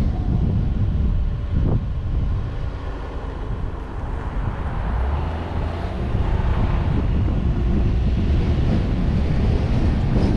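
Wind buffeting the microphone of a suction-cup-mounted action camera on a moving car, over the steady rumble of the car driving along the road.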